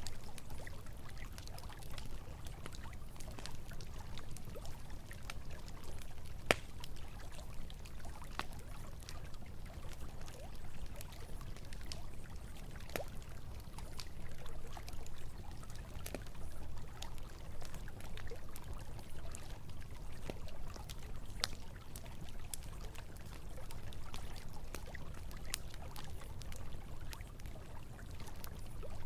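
Campfire crackling with scattered sharp pops, the loudest about six and a half seconds in, over the steady rush of flowing river water.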